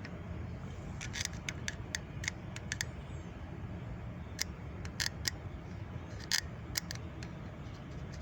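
Irregular light clicks and taps, about fifteen of them at uneven spacing, over a low steady hum.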